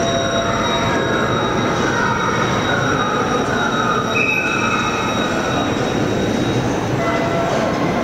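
Railway workshop machinery running during a railcar body lift: a steady loud mechanical noise with constant high whines and a short falling tone repeating about once every 0.7 seconds.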